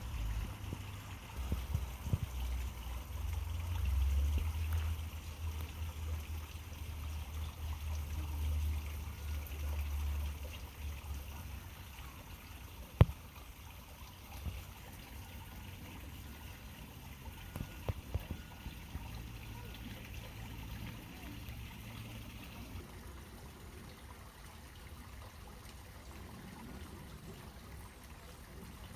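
Water trickling steadily at a pond, with a low rumble through the first ten seconds or so and a single sharp click about thirteen seconds in.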